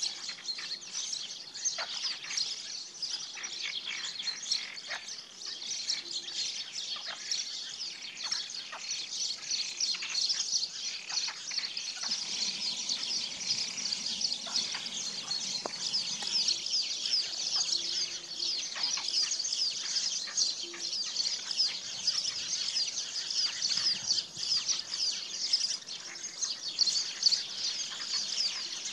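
Dense chorus of many small birds chirping at once: a continuous, high-pitched chatter of rapid overlapping chirps.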